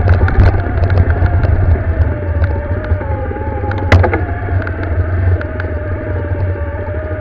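Motorcycle engine running under load on a trail climb, a steady rumble with an engine note that dips and rises slightly, with wind noise on the microphone. A single sharp knock about four seconds in.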